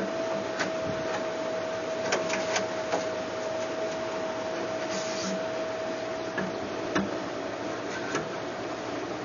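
Scattered sharp clicks and knocks from handling and fastening mounting brackets with screws, over a steady high hum.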